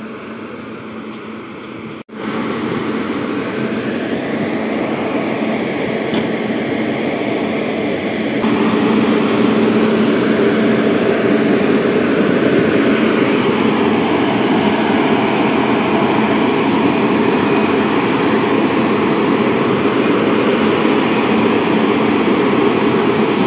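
Electric passenger train pulling into a platform behind a WAP-5 locomotive: a steady rumble of wheels and coaches on the rails, stepping up in loudness about eight seconds in as it draws alongside.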